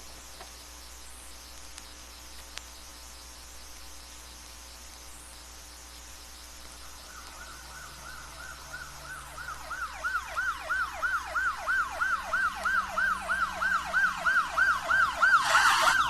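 Police car 'yelp' siren, a fast up-and-down wail at about two to three sweeps a second. It comes in faintly about seven seconds in and grows steadily louder as the car approaches, with a loud rush of the passing vehicle at the very end.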